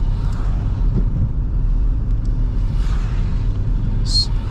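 Steady low rumble of a 2005 Toyota Highlander's 3.3-litre V6 and its tyres running through slush while driving, with a brief high hiss near the end.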